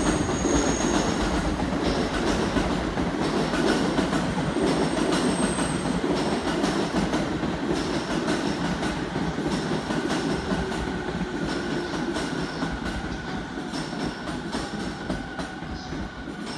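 E217 series electric multiple-unit train running into the station, wheels clicking over rail joints with a steady rumble. It grows gradually quieter as it slows, and a faint thin whine comes in during the second half.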